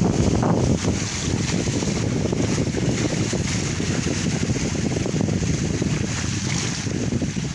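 Strong wind buffeting the microphone aboard a small sailing catamaran under way in a force-5 breeze, with water rushing past the hulls.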